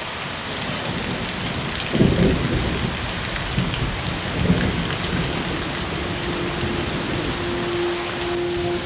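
Heavy rain falling steadily in an even hiss, with a low rumble about two seconds in and a smaller one a couple of seconds later.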